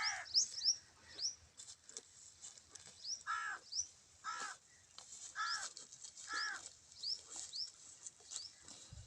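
Birds calling: a harsh, caw-like call repeated several times, mostly in the middle of the stretch, with many short high rising chirps in between.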